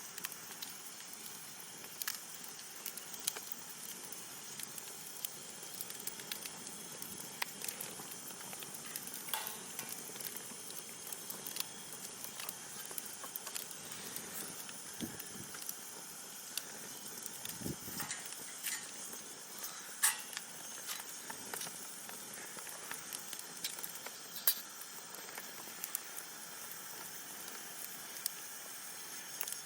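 Wood fire burning: a steady soft hiss with frequent small crackles and snaps, and a few sharper pops, the loudest about twenty and twenty-four seconds in.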